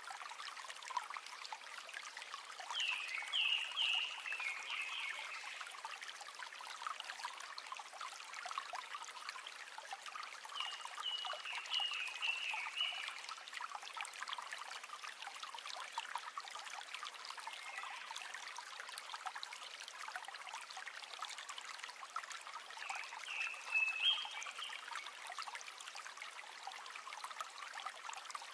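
A shallow river running over stones, a steady trickling and splashing. Short high chirping calls come through three times: near the start, around the middle and near the end.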